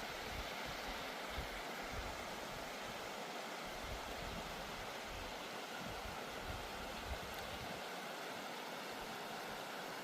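Steady rush of flowing creek water, with irregular soft low thumps.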